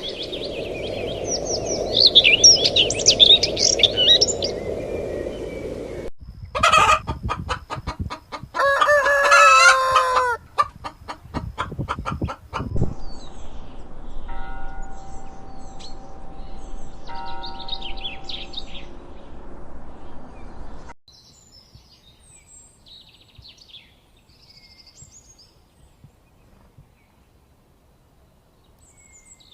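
Birds calling: high chirps over a background hiss, then a loud, drawn-out call about nine seconds in that drops in pitch at its end. Only scattered faint chirps follow in the last third.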